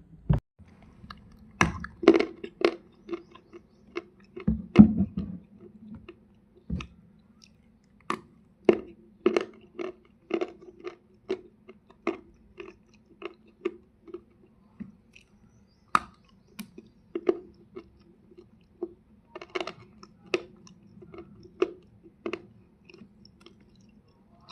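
Dry multani mitti (fuller's earth clay) crunching as it is bitten and chewed: a long run of sharp, irregular crunches, about one or two a second, over a faint steady low hum.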